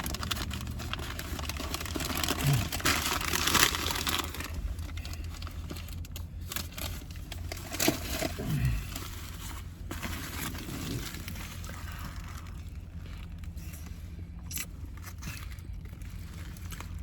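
Plastic snack packaging being handled, crinkling and rustling in irregular bursts, loudest a few seconds in, over a low steady hum.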